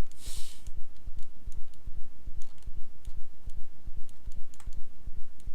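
Scattered computer keyboard and mouse clicks over a loud, low pulsing rumble.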